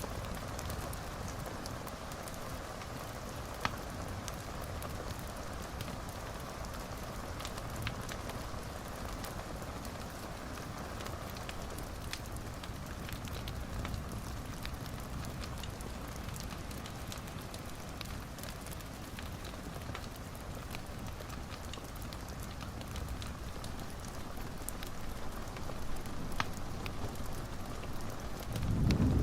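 Wood fire in a fireplace burning steadily, with a low rumble of flame and scattered sharp crackles and pops. A low rumble swells up near the end.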